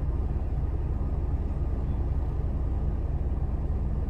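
Car engine idling, heard as a steady low rumble from inside the cabin.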